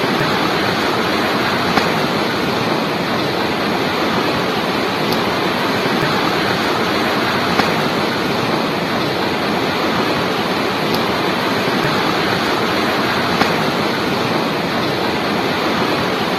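Steady rushing of river water, an even loud noise with no breaks, with three faint clicks spread through it.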